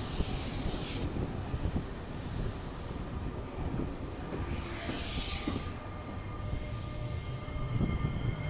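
Nankai electric train moving slowly along the station platform: a steady rolling rumble from the wheels, with two short bursts of high hiss, one at the start and one about five seconds in.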